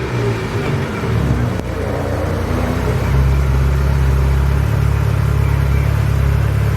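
Classic supercar engine running close by: a mixed, shifting engine sound at first, then from about three seconds in a louder, steady low hum as a car sits running.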